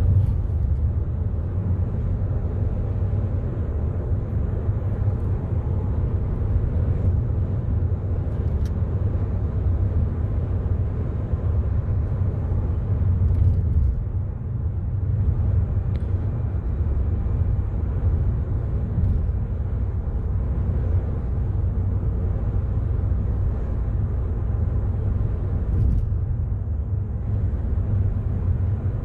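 Steady low road and engine rumble heard inside the cabin of a moving 2013 Volkswagen Jetta.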